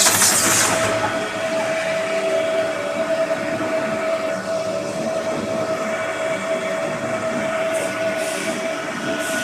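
Polystyrene foam hot melting compactor running: a steady mechanical hum with a constant whine. Short bursts of hiss come at the start and again near the end.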